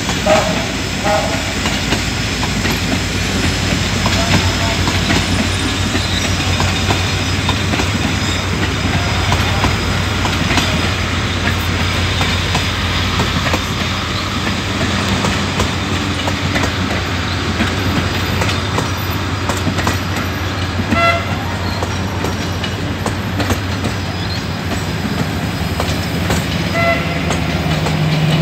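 Egyptian Railways passenger coaches rolling past on the adjacent track: a steady rumble of wheels on rail with repeated clicking over the rail joints. A brief high tone sounds twice in the later part.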